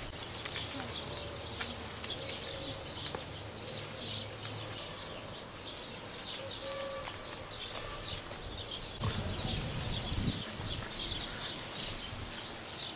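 Small birds chirping and twittering, many short high calls one after another, over a low rumble.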